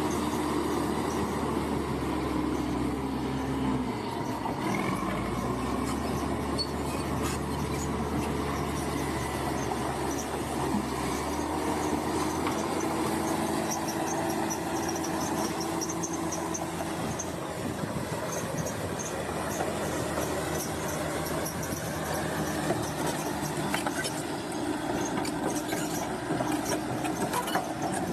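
Crawler bulldozer's diesel engine running under changing load, its pitch shifting about four seconds in and again near the middle, with metallic squeal and clank from the steel tracks.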